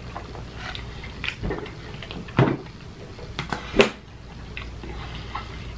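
Close-miked eating sounds: chewing and small wet mouth clicks on soft pasta and chicken Parmesan. Two louder sharp clicks come about two and a half and four seconds in, over a low steady hum.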